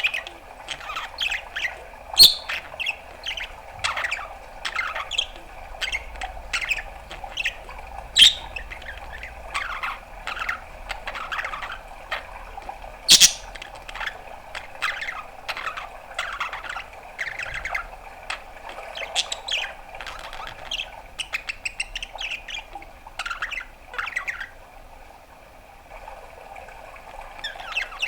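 Budgerigar chattering: a busy run of short chirps, warbles and clicks, with a few loud sharp squawks, going quieter for a few seconds near the end.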